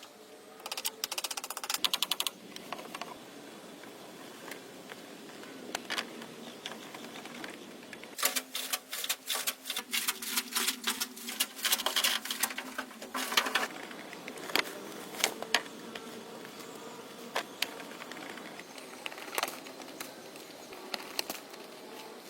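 Bursts of rapid, sharp clicking and tapping: a quick run near the start, a longer dense spell in the middle, then scattered single clicks.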